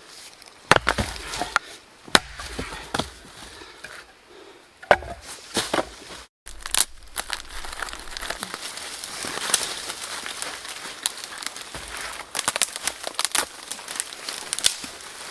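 Wood being chopped and handled: irregular sharp knocks and snaps with crackling and rustling. The sound breaks off abruptly about six seconds in, and a denser run of crackles and snaps follows.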